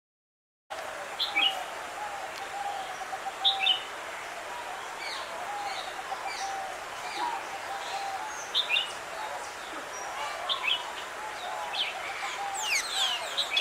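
A chorus of many birds chirping and calling. Short high chirps come every second or so over a steady layer of lower warbling calls, with a quick flurry of rapid chirps near the end. The sound starts abruptly just under a second in.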